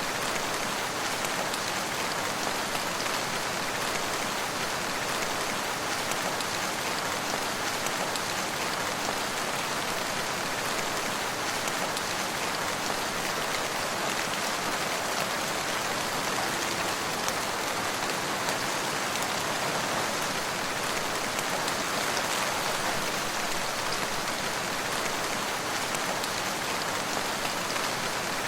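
Steady rain falling: a dense, even hiss of many drops that holds without change.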